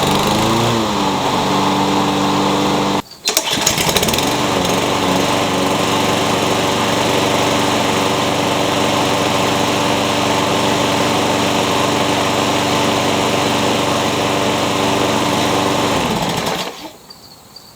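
Walk-behind lawn mower engine with an automatic choke, cold-started. It catches, rises briefly in pitch and settles to a steady run rather than revving high, a sign that the stuck choke linkage is fixed. It drops out for a moment about three seconds in and picks up again with the same short rise, then is shut off and winds down near the end.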